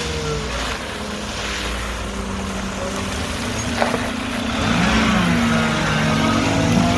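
Garbage truck's diesel engine running, with a sharp knock a little before the middle, then revving up and getting louder about two-thirds of the way through.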